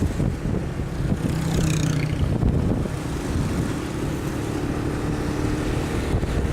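Motorcycle riding in street traffic: a low rumble of wind on the microphone over a steady engine hum. A brief high chirping sound comes about two seconds in.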